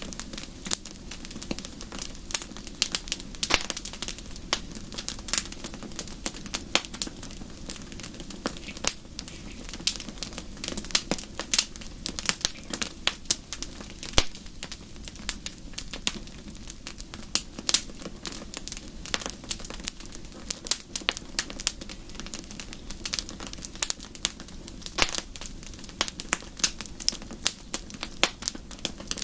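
Wood fire in a fireplace crackling and popping, with many irregular sharp pops over a steady low rumble of the burning fire.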